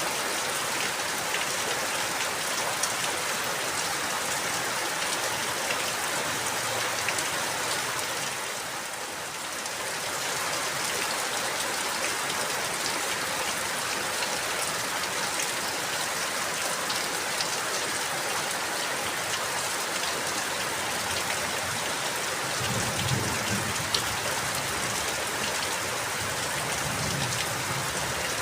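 Steady rain falling on a surface, easing briefly about nine seconds in. A low rumble comes in twice near the end.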